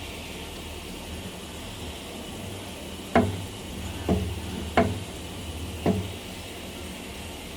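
A steady low machine hum with four sharp knocks, spaced about a second apart, in the middle.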